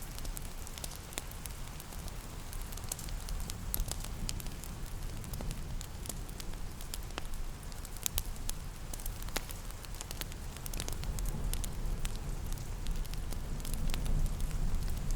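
Wood fire crackling, with irregular sharp pops and snaps over a low steady rumble, growing a little louder near the end. A soft hiss of rain lies underneath.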